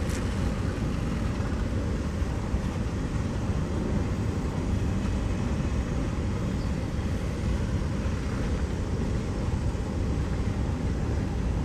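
Freight train cars rolling past at slow speed: steady noise of steel wheels on the rails as covered hoppers and tank cars go by.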